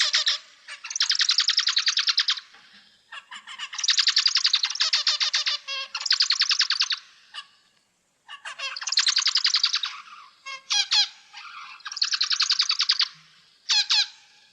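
Munias (emprit) calling in repeated bursts of fast, buzzy chirping, each about a second long with short pauses between, and one longer pause about halfway through.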